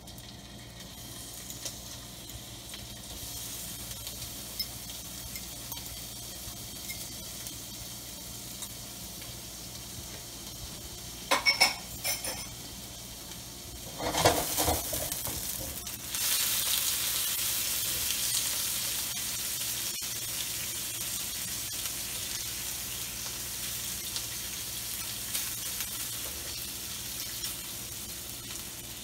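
Peeled jumbo shrimp frying in hot oil in a nonstick wok, a steady sizzle that grows louder about two-thirds of the way through. A few loud clatters of the wok and utensils come about halfway through, as the shrimp are tossed and stirred.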